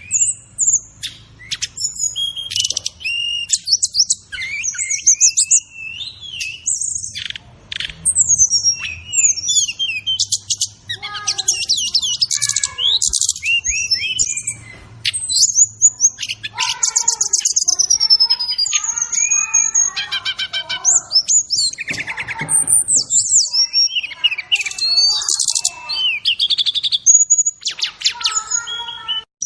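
Continuous master-track birdsong of a brown-chested jungle flycatcher (SRDC, sikatan rimba dada coklat) with mixed-in fill-in calls: a dense, fast string of varied high chirps, rapid trills and sliding whistles.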